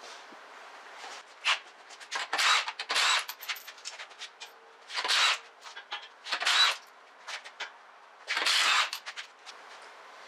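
Several short bursts of scraping and clatter from hand work on a car's front drum brake, separated by quieter pauses.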